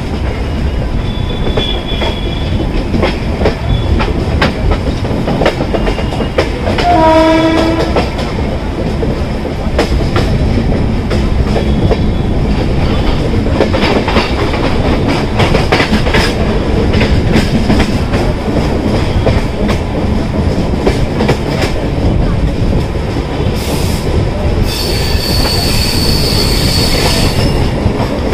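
Indian Railways express coaches rolling over points and crossings, heard from an open coach door: a steady rumble with clicking wheels over rail joints. A short horn blast comes about seven seconds in, and a high wheel squeal lasts a couple of seconds near the end.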